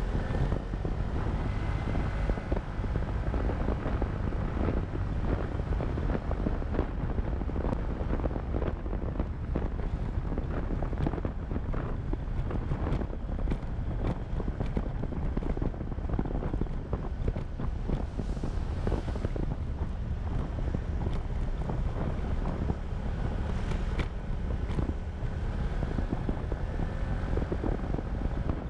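Motorcycle riding along with its engine running, heavy wind noise buffeting the microphone. A faint engine whine comes up briefly near the start and again near the end.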